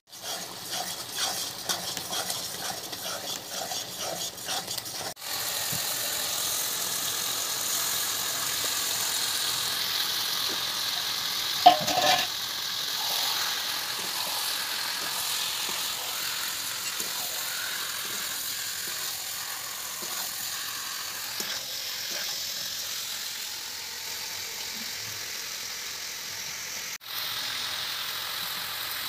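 Masala and then chicken pieces frying and sizzling in a metal kadai, stirred with a spatula that scrapes against the pan, with one sharp knock about twelve seconds in.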